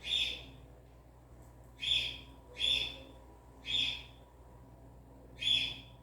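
A bird calling over and over, five short harsh calls about a second or so apart, over a faint steady low hum.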